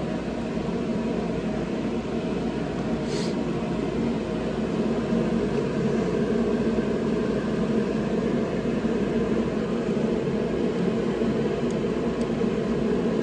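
A steady mechanical hum, even throughout, with one faint click about three seconds in.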